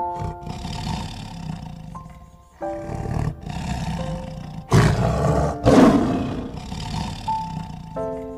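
Tiger roaring and growling in a series of rough roars, the loudest two just before and after the middle, over background keyboard music.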